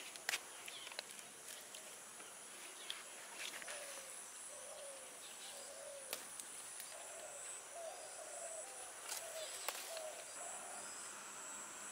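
A bird calling a long series of short, low, arched notes, one or two a second, over a steady high-pitched hum. A few sharp snaps come from leaves and stems being picked off a garden plant.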